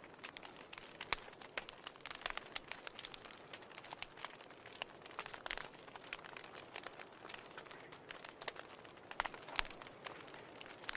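Wood fire in a fireplace crackling: irregular small pops and snaps over a soft hiss, with a couple of louder pops about a second in and near the end.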